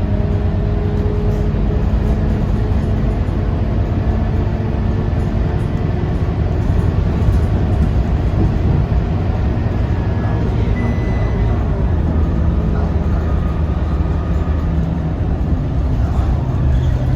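Scania K230UB city bus's five-cylinder diesel engine running steadily under way, with road noise; its pitch shifts in the second half as the engine speed changes.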